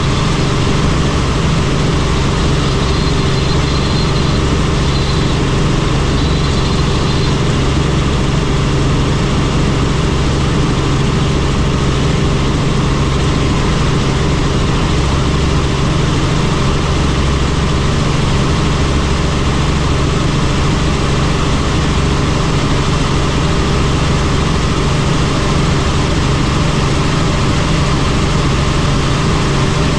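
Helicopter in flight, heard from on board: a loud, steady drone of engine and rotor with constant low tones and no change in pitch.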